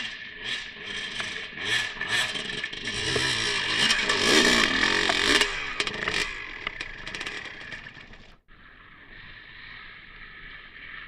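Dirt bike engine revving up and down under rushing wind noise, with scraping and rattling. It drops out abruptly about eight seconds in, leaving a quieter steady hiss.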